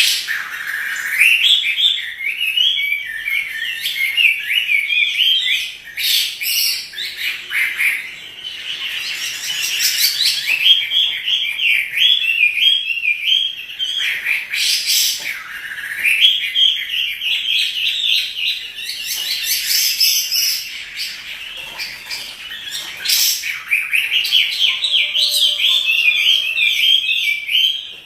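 Chinese hwamei singing a loud, continuous warbling song of fast, varied phrases, broken by short pauses. A few sharp clicks come through now and then.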